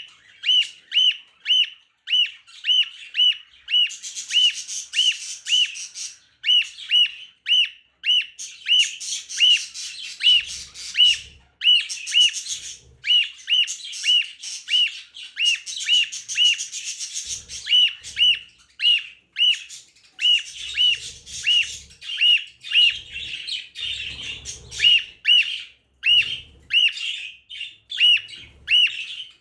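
A bird calling over and over, a short sharp call about two or three times a second, with spells of harsh, scratchy chatter mixed in.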